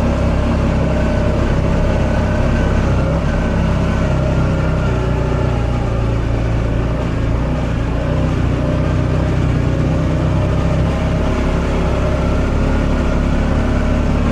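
Buggy's engine running steadily as it is driven, a constant drone with no clear changes in pitch.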